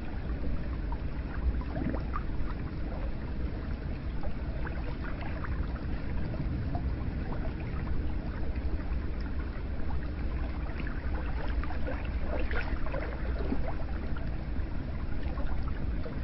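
Hot spring water pouring and splashing steadily into a bath, with many small drips and splashes over a constant low rush.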